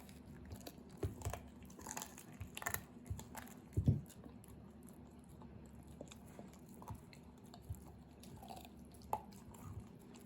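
A dog chewing and crunching on bear bone and cartilage, with irregular sharp cracks, busiest in the first four seconds and sparser after.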